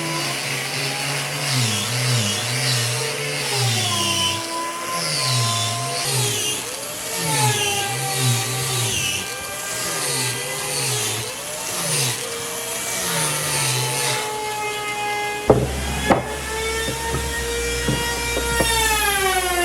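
Power tools working wood, their motor pitch dropping and recovering again and again as they bite into the wood. A deeper rumble and a few sharp knocks come in near the end.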